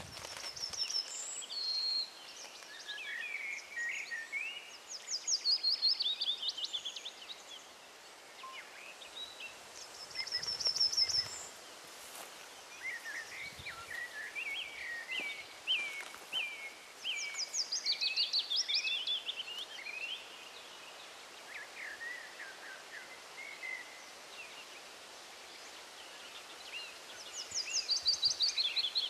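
Several songbirds singing: varied chirps and whistled phrases, with a loud rapid trill that recurs every several seconds, over a light background hiss.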